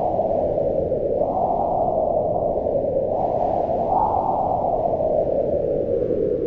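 Strong wind blowing as a steady low rush, swelling in gusts about a second in and again about four seconds in.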